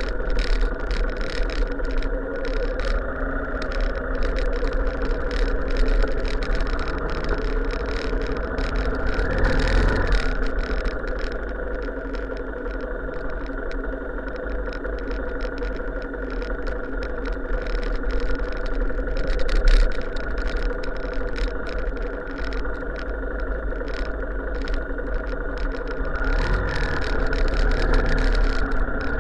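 A vehicle engine running steadily, with low rumble beneath, swelling briefly about ten seconds in and again near the end.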